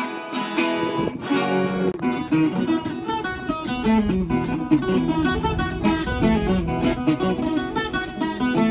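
Viola caipira, the Brazilian ten-string folk guitar, being played: plucked notes picking out a moving melody, with a few strummed strokes.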